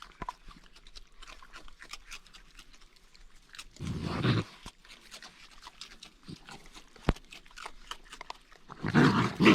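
Raccoons crunching dry food in a run of small clicks. Twice a raccoon growls harshly at another: briefly about four seconds in, and louder and longer near the end. The raccoons are squabbling over the food.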